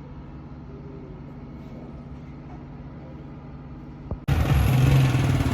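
A steady low engine hum, then about four seconds in a sudden jump to a much louder engine running with a rushing noise over it.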